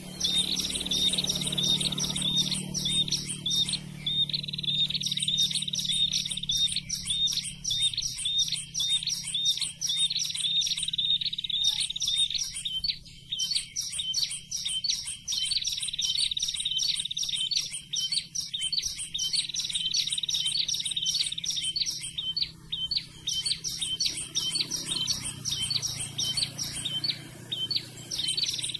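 Prenjak (prinia) song in the 'ngeplong' style, played as a trapping lure: fast trains of high, sharp chirps repeated almost without pause, with short breaks every few seconds.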